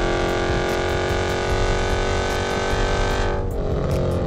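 Dodge Hellcat's supercharged 6.2-litre V8 running at speed, its note falling slowly. About three seconds in, the higher part of the sound dies away and the engine note carries on lower and softer.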